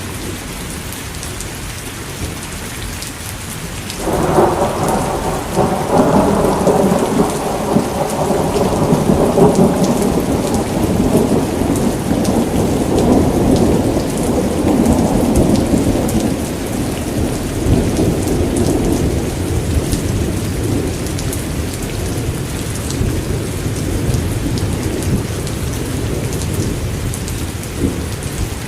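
Steady rain falling, with a long roll of thunder that breaks in suddenly about four seconds in and rumbles on, slowly fading over some fifteen seconds.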